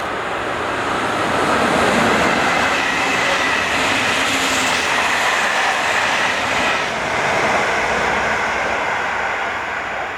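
Intercity passenger train behind an EU07A electric locomotive rolling past at speed, with steady wheel-on-rail noise and a faint high squeal. It swells twice and eases off near the end.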